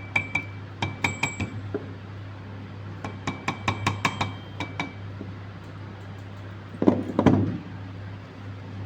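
Light metallic clinks and taps of metal pump parts and tools being handled, in quick runs of short ringing strikes, then two duller knocks near the end.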